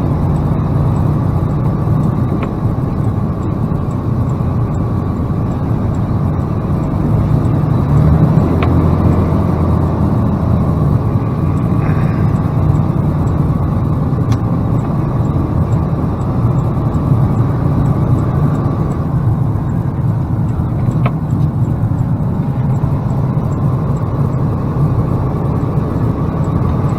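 Steady running drone of a plow truck's engine and road noise, heard from inside the cab.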